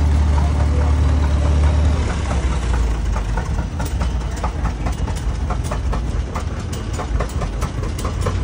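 Old tractor engines running at idle: a deep steady rumble for about the first two seconds, then a lighter rumble with a regular ticking, about three beats a second.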